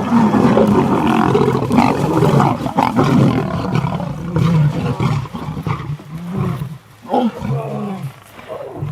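Lionesses growling and snarling in a fight at a buffalo kill. The growling runs almost unbroken for about the first five seconds, then breaks into shorter, separate growls.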